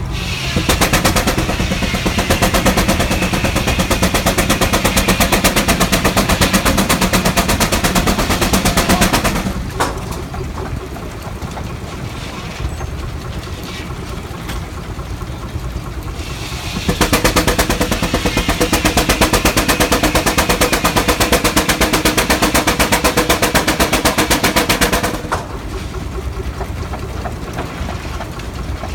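Steam engine running. Twice it comes up to a loud, fast, even beating with a steady tone underneath, each time for about eight seconds, then drops back to a quieter steady run.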